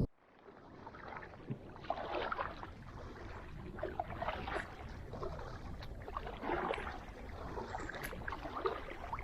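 Kayak paddle strokes: water splashing and dripping off the blades as they dip in and pull, repeating every second or so.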